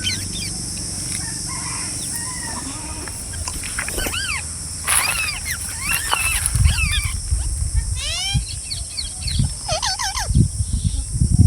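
Birds calling: a string of short rising-and-falling chirps and squawks, some in quick descending runs, over a steady high-pitched hiss. Low rumbles come in during the second half.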